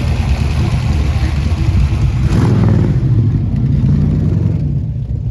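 Classic car engines running with a deep, steady rumble, one swelling louder in a brief rev or drive-by about halfway through.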